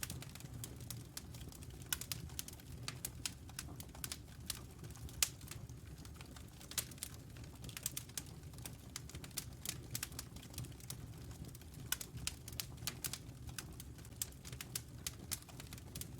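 Wood fire crackling in a fireplace: irregular sharp pops and snaps, one louder snap about five seconds in, over a steady low rumble of the flames.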